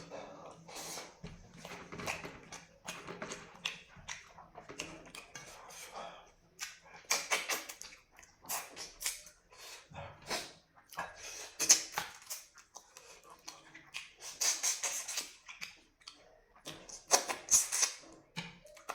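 Close-up eating sounds: a person chewing, with crisp crunching bursts every few seconds.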